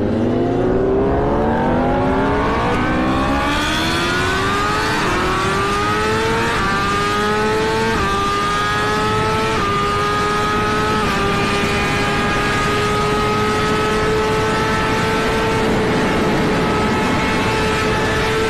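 Motorcycle engine accelerating hard through the gears, its pitch rising with a brief step at each of about five upshifts. After the last shift it holds a high, nearly steady pitch at speed.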